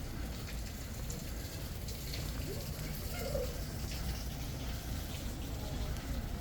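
Outdoor background noise: a steady low rumble with faint scattered ticks and a brief faint tone a little past the middle.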